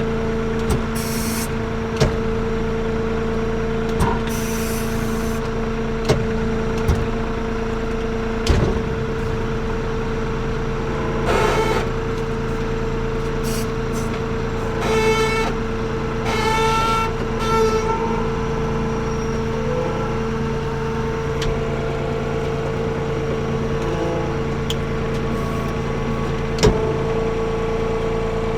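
Avant 755i compact loader's diesel engine running steadily with a constant hum. Several sharp knocks and clanks come through it, and a few brief squeals about halfway through.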